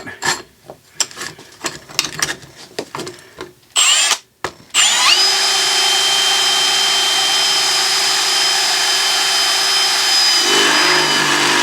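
Power drill fitted with a Diablo bit. After a few handling knocks and a short trigger blip, it runs steadily with a high whine from about five seconds in. Near the end the pitch drops as the bit loads up, cutting into the workpiece.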